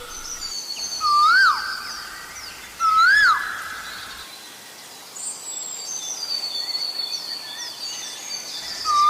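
Asian koel calling twice, each call a note that swoops up and drops away, about two seconds apart, with another call starting right at the end. Smaller birds chirp faintly at a higher pitch behind it.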